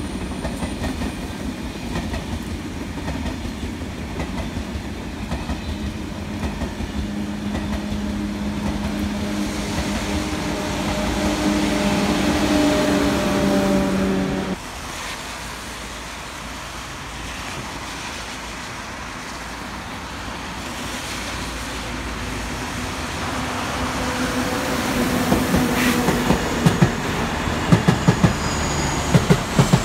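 Eurostar train rolling past with a steady electric hum over its rumble, which stops abruptly about halfway. A lower rumble then builds as a container freight train approaches, its wheels clacking over rail joints near the end.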